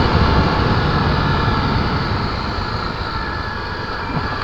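Honda XR250 Tornado's single-cylinder four-stroke engine running while the motorcycle rides along a dirt road, a steady engine and road rush that slowly gets quieter.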